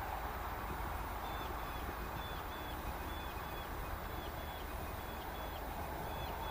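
Steady outdoor background noise with a small bird calling faintly and repeatedly, short high notes that come in pairs about once a second.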